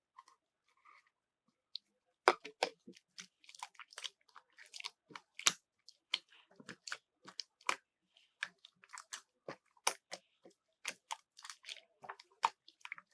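Marbled slime being squeezed and poked by hand, giving a rapid irregular run of sharp sticky clicks and pops, several a second, starting about two seconds in.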